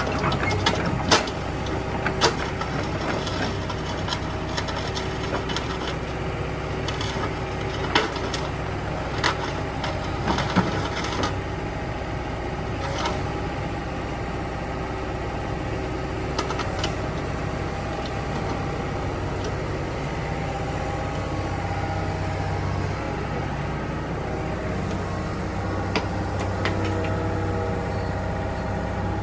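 Yanmar ViO30 mini excavator's diesel engine running steadily, with sharp metallic clanks and knocks scattered through as the machine works its way down off a trailer.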